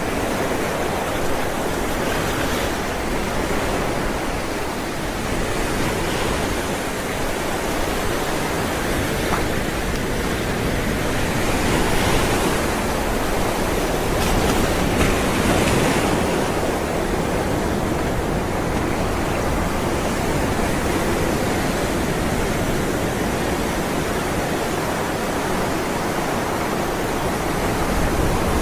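Ocean waves rolling and breaking as a continuous surf wash, with a few swells of brighter hiss as waves break.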